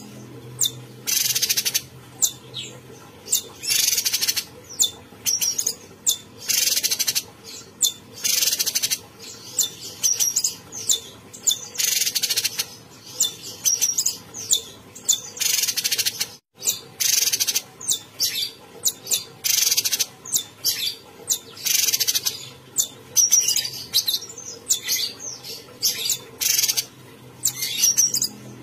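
Cucak cungkok songbird singing vigorously, loud high-pitched phrases repeating about once a second, over a faint low hum.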